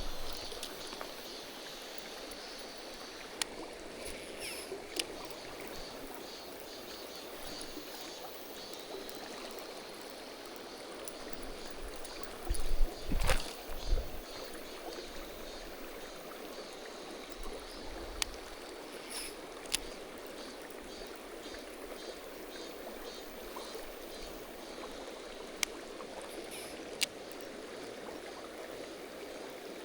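Mountain stream water running steadily, with a few loud low thumps about halfway through and scattered sharp clicks.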